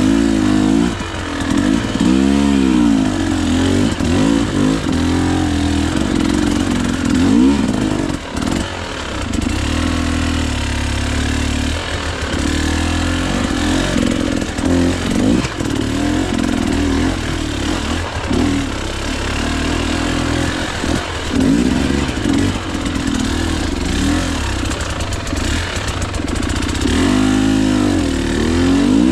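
Two-stroke KTM EXC 300 enduro motorcycle engine being ridden hard, revving up and down again and again as the throttle is worked, with a few short dips where it is shut off.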